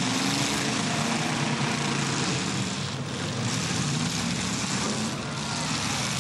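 Several demolition derby cars' engines running together in a steady, droning din, rising and falling a little as the drivers rev.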